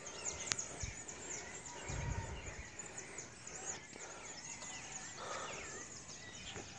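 Birds chirping, many short, quick falling calls overlapping, with a brief low rumble about two seconds in.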